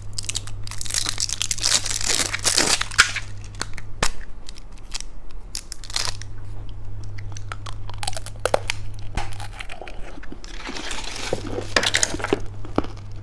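Plastic candy wrapper crinkling and tearing as it is handled and opened, in two longer bursts with scattered clicks and rustles between.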